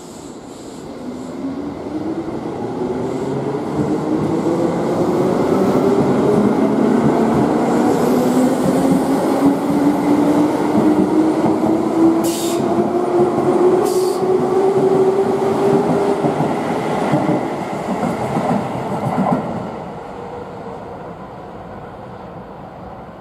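Keihan 2400 series commuter train pulling away and accelerating, its traction motors whining in several tones that rise steadily in pitch, over the rumble and clatter of wheels on rail. Two brief high squeals come about halfway through, and the sound falls away near the end as the train draws off.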